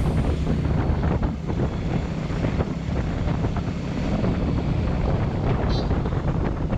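Yamaha 250 motorcycle running on the move, with wind buffeting the microphone.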